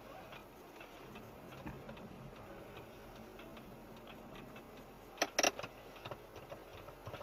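Faint, steady ticking, with a few louder clicks about five seconds in.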